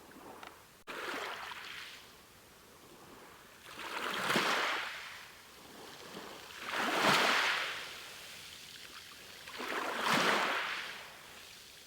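Ocean surf: waves breaking on a shore in slow, regular swells about every three seconds, each building to a hiss and then washing away.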